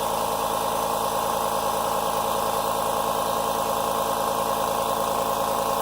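California Air Tools 8010 Ultra Quiet air compressor, with its 1 hp motor, running steadily as it pumps up its 8-gallon tank, here at about 60 psi. It makes an even, unchanging hum.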